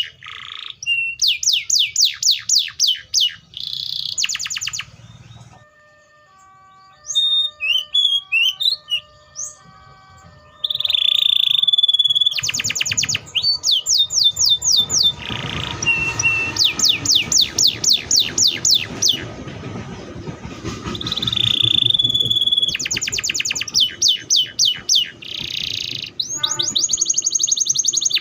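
Domestic canary singing: fast rolling trills of rapidly repeated falling notes, alternating with held whistle-like tones. A softer stretch of scattered short notes comes about a quarter of the way through.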